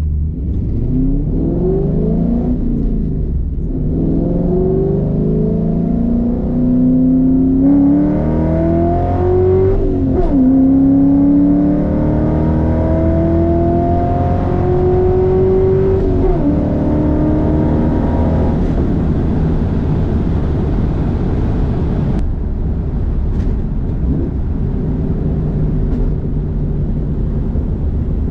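Roush Mustang pulling hard from a dig, heard from inside the cabin with the windows up: the engine note climbs steadily and drops back at three upshifts, then settles into a steady cruise.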